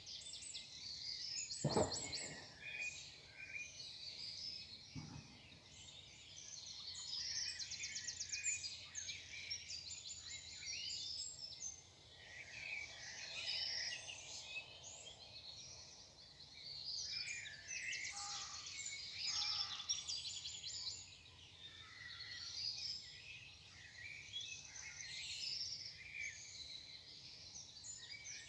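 Morning chorus of many songbirds singing at once, overlapping high chirps, whistles and rapid trills. A sharp knock sounds about two seconds in and a fainter one at about five seconds.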